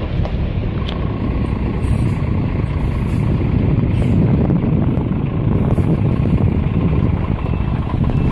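Heavy truck engine running steadily with a loud low rumble. A reversing beeper starts faintly near the end.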